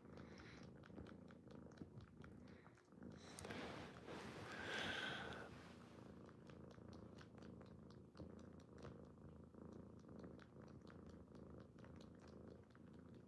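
Kitten purring faintly and steadily, with a brief louder sound about four to five seconds in.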